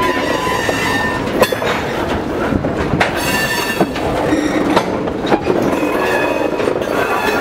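Loaded tank cars of a freight train rolling past close by: steel wheels clicking and knocking over the rail, with a high wheel squeal that comes and goes.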